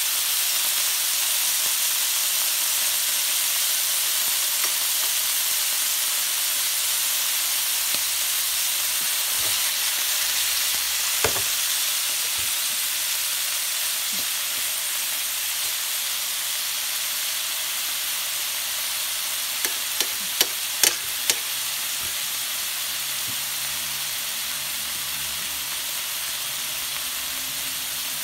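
Chicken breast shallow-frying in hot oil in a pan: a steady sizzle that eases slightly towards the end. A sharp click comes about eleven seconds in, and a quick cluster of about five clicks about twenty seconds in.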